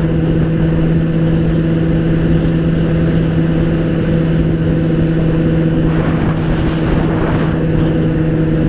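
Motorcycle engine running at steady revs, with a constant engine note over wind and road noise. A brief rush of broader noise comes about six to seven seconds in.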